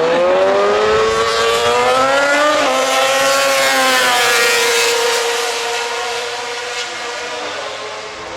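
Racing motorcycle engine revving hard as it accelerates, its pitch climbing with a brief dip as it shifts up about three seconds in. It then holds a steady note and fades toward the end.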